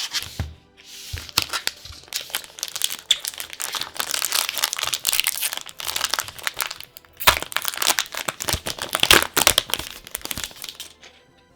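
Plastic packaging crinkling and tearing as it is opened, in dense crackling bursts with a short lull a little past halfway.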